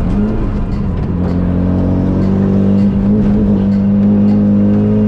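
Turbocharged four-cylinder engine of a Renault Clio track car, swapped in from a Megane RS, running under load at a fairly steady pitch that climbs slightly in the first second or two.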